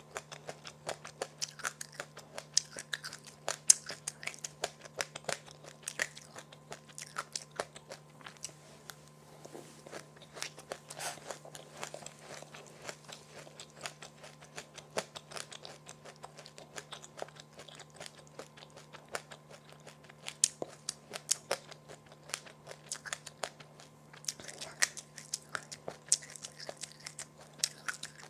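A person chewing crunchy food close to the microphone: a dense run of sharp crackling crunches that thins out somewhat midway and picks up again near the end, over a faint steady low hum.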